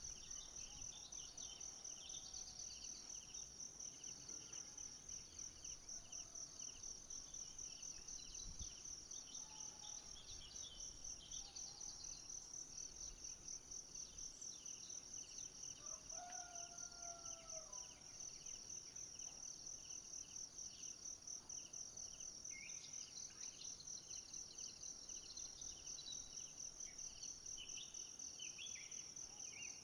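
Faint, steady insect chorus: a high-pitched trill pulsing rapidly and evenly throughout. Scattered short bird-like chirps sound over it, with a brief sliding call about sixteen seconds in.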